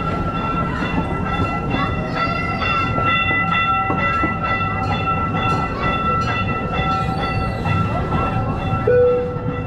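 Gas-powered replica steam train rolling along its track, the open cars clattering with frequent clicks, a steady rumble and a steady high-pitched whine over the top.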